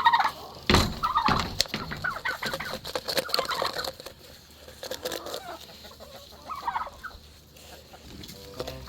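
Chickens clucking excitedly as they are fed, with many sharp clicks and two loud low thumps about a second in.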